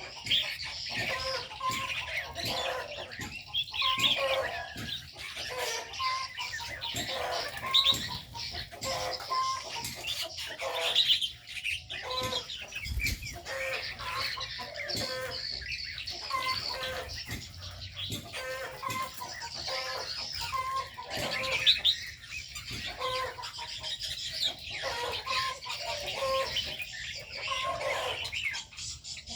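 Many aviary birds calling at once: a dense mix of high chirps over short low calls that repeat all the way through.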